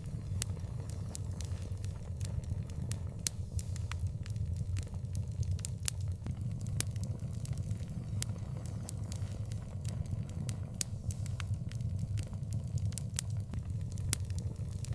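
Fire in an outdoor fireplace, crackling and popping with frequent irregular sharp pops over a steady low rumble.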